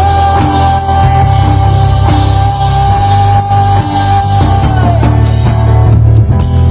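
Rock band playing loudly over heavy bass, with one long steady note held for about five seconds that bends down as it ends.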